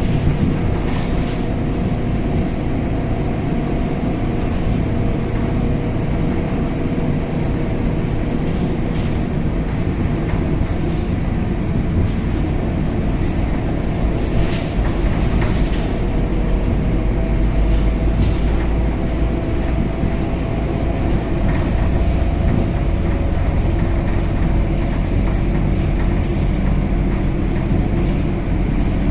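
Scania K270UB city bus heard from inside the cabin while under way: a steady engine drone with low rumble and road noise. A few faint brief rattles come through, about a second in and again around the middle.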